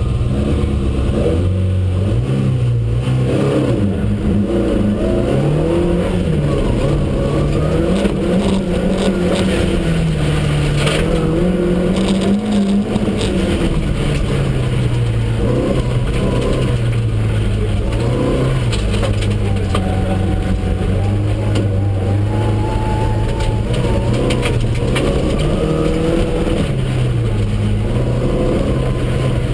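Škoda 120S rally car's rear-mounted four-cylinder engine under hard driving, heard from inside the cabin. It revs up and falls back over and over as the driver shifts gears.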